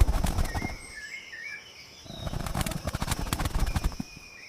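A bird's wings flapping in two bouts of rapid beats: one at the start and another from about two seconds in until about four seconds in. Faint bird chirps can be heard behind them.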